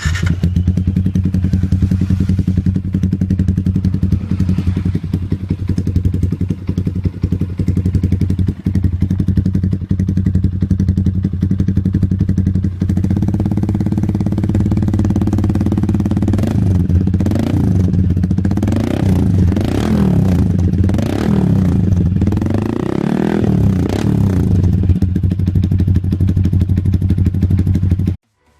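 Yamaha MX King 150's single-cylinder four-stroke engine running through an aftermarket exhaust: it idles steadily, is revved up and down several times in quick blips in the middle, settles back to idle, and cuts off suddenly near the end.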